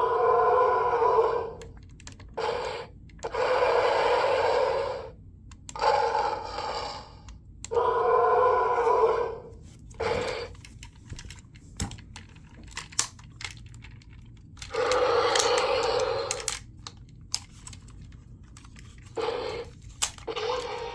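Electronic sound effects from a VTech Switch & Go Dinos transforming toy's speaker, in several bursts of one to two seconds. Between them, its plastic parts click and rattle as they are handled.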